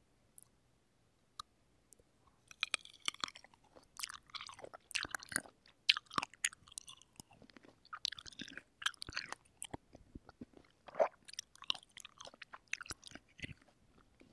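Close-miked mouth sounds of chewing juicy cherries: wet squishing and smacking clicks that start about two seconds in and run on in a busy, uneven stream.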